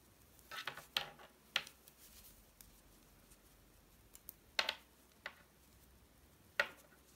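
Knitting needles clicking lightly against each other as stitches are worked, a few scattered clicks with pauses of a second or more between them.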